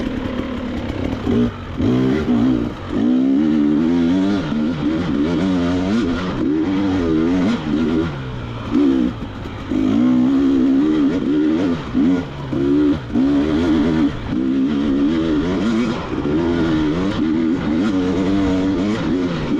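Two-stroke enduro dirt bike engine, a KTM 300 XC-W single, revving up and down under constant throttle changes while climbing over rough trail, with brief drops to off-throttle every few seconds.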